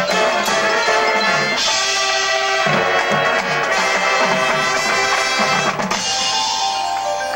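Youth marching band playing, brass and drums together. About six seconds in, the full sound thins to quieter held notes.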